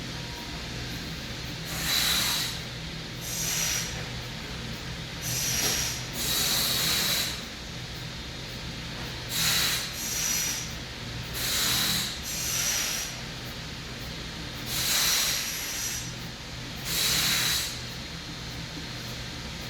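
A person breathing hard through the nose in a pranayama exercise: about ten airy breaths, each under a second, at uneven intervals. A steady low hum runs underneath.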